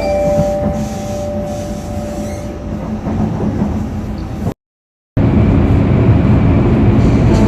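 Train carriage running noise heard from inside the car, a steady rumble. The last note of an onboard announcement chime rings out and fades over the first couple of seconds. About four and a half seconds in, the sound drops to silence for about half a second, then similar rumbling running noise resumes.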